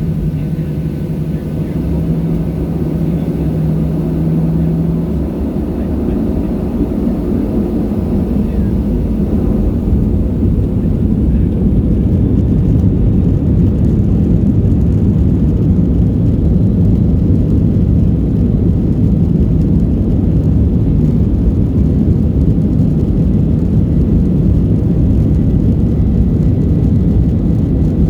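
Boeing 737-700 heard from inside the cabin: its CFM56 jet engines and the rushing air make a heavy, steady low rumble with a faint engine whine above it. The rumble grows a little louder about ten seconds in and then holds steady.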